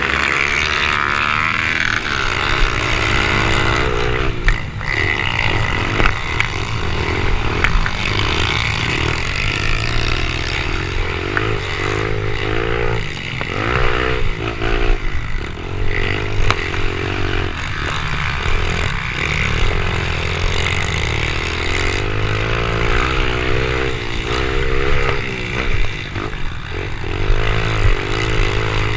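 Small four-stroke pit bike engines revving up and down again and again as they are ridden, each climb in pitch followed by a drop as the throttle is rolled off.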